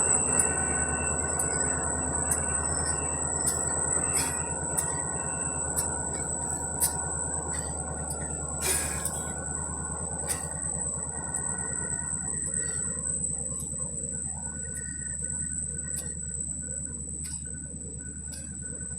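Diesel locomotive and train cars rolling past slowly: a steady low rumble with sharp clicks about once a second, gradually fading as the train moves off. A steady high-pitched whine runs throughout.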